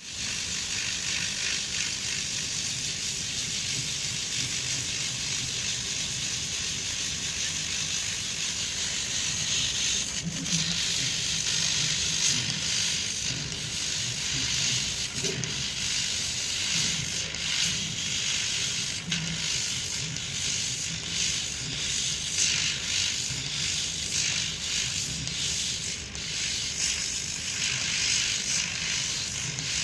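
CNC engraving machine cutting: a steady hiss over a low hum, with irregular crackling clicks that grow frequent about a third of the way in.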